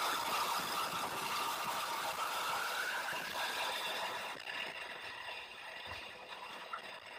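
Shelby Mustang V8 engine with wind and road roar, heard from inside the cabin at over 100 mph down a straight. About four seconds in the top end of the sound drops away and it grows quieter as the car slows hard for a corner.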